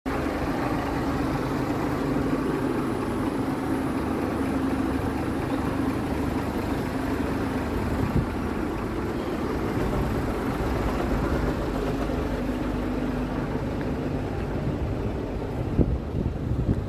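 Scania P380 truck's diesel engine idling steadily, with a single knock about eight seconds in and a few sharper knocks near the end.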